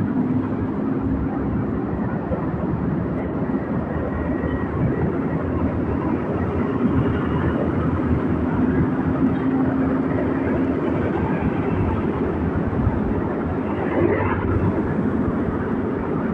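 Motorbike engine running steadily while riding, under a constant rush of road and wind noise.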